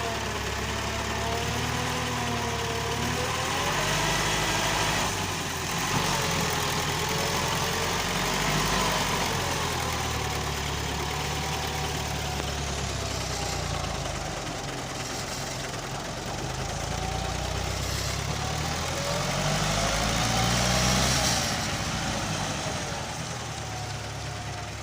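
Massey Ferguson 265 tractor's three-cylinder diesel engine running while hauling a heavily loaded trolley, its speed rising and falling.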